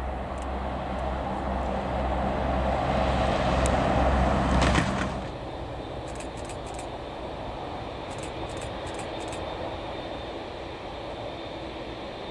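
Jet airliner engine noise growing louder over the first few seconds, then dropping off suddenly about five seconds in to a steady, lower rumble.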